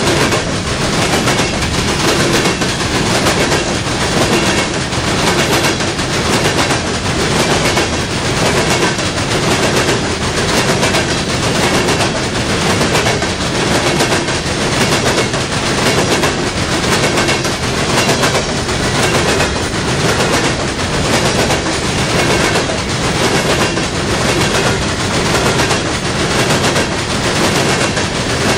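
Coal train's open-top hopper cars rolling past close by, their steel wheels clattering in a loud, rapid run of knocks that swells and fades in a regular rhythm as each car's trucks go by.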